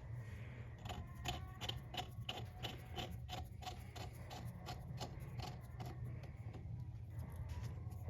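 Evenly spaced light metallic clicks, about three a second, each with a brief ring, as a chain press tool is worked onto a motorcycle drive chain. The clicking stops about two-thirds of the way through.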